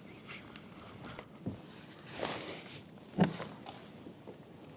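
A few soft knocks and rustles from handling on a kayak. The loudest knock comes about three seconds in, with a brief rustle just before it.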